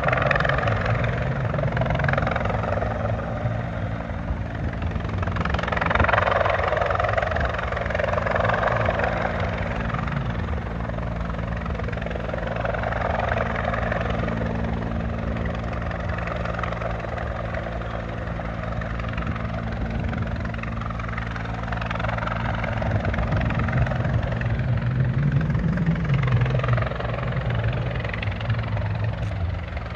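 Rescue helicopter hovering nearby with a steady rotor and turbine drone that swells and fades every few seconds.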